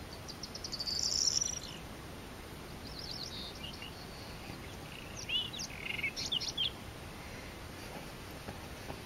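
Male white-throated robin singing two phrases of quick, high-pitched notes: a short one about a second in and a longer, more varied one in the middle.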